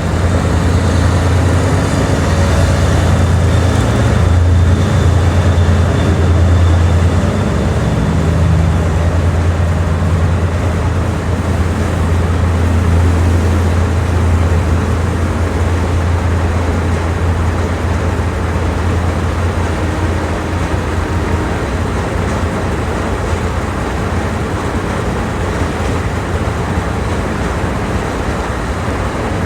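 Train running: a steady low rumble with an even noisy hiss over it, easing off a little in the second half.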